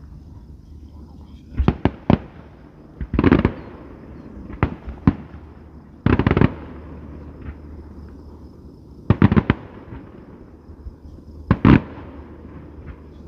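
Fireworks going off in a series of sharp bangs, some single and some in quick pairs or clusters, every second or two, a few trailing off briefly.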